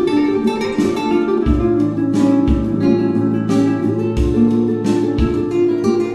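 Music led by strummed and plucked acoustic guitar, with low bass notes about once a second.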